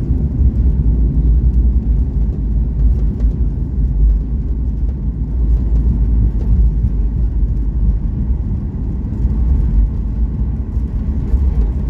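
Steady low rumble of engine and airflow noise inside the cabin of a Boeing 737 MAX 8-200 airliner, with no distinct thumps or changes.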